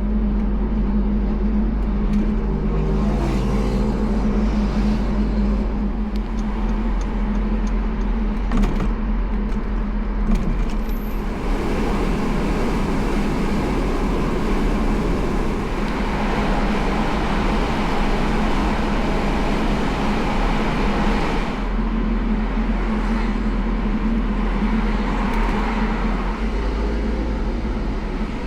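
A car driving along the road: a steady engine drone under tyre and road noise, which grows louder for several seconds around the middle and then eases again.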